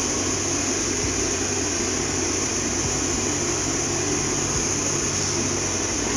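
Xiaomi robot vacuum cleaner running, its suction fan giving a steady, unbroken whooshing hiss with a high-pitched edge.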